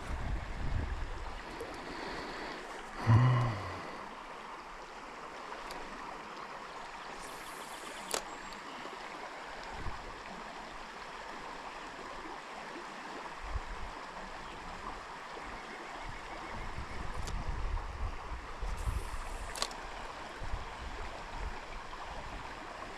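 Stream water running steadily over the streambed. About three seconds in there is a brief louder sound, and there are a few sharp clicks later on.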